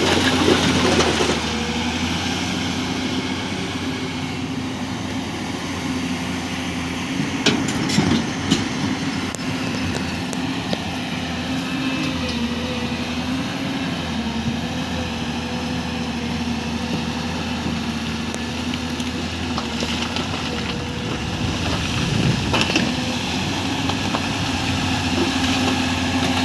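Heavy-equipment diesel engine running at a steady speed, with a few sharp knocks about seven to eight seconds in.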